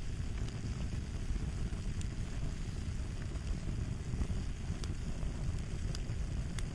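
Fire crackling: a steady low rumble with scattered, irregular sharp pops and snaps.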